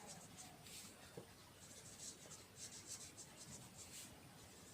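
Faint scratching of a pen writing, several short strokes in a row.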